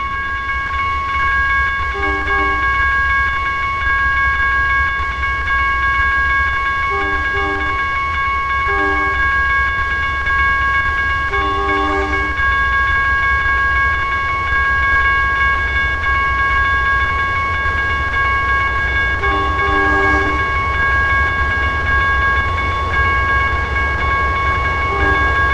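Maintenance-of-way train rumbling past with a steady high-pitched tone held throughout. Short horn toots sound every few seconds, some in pairs.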